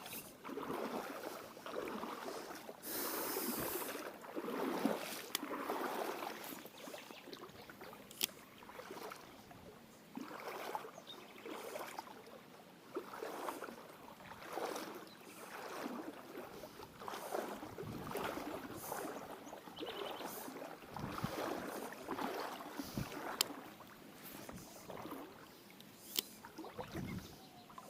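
Legs wading through shallow river water: a swishing splash with each stride, coming in surges about every second or so, with a few sharp clicks in between.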